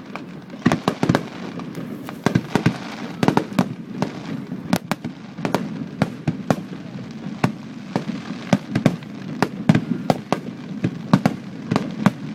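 Fireworks display going off: a dense, irregular run of sharp bangs and crackles, several a second, with no let-up.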